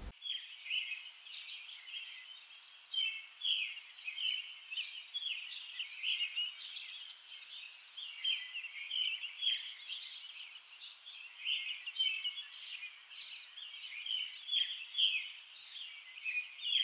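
Birds chirping and singing outdoors, many short overlapping calls and trills throughout.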